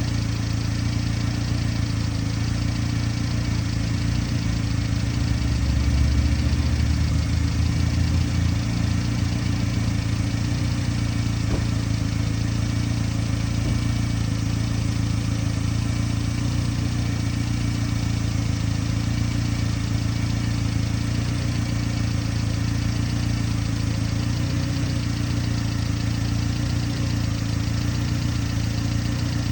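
The 1998 Subaru Sambar's 660 cc four-cylinder engine running steadily at idle, an even low hum.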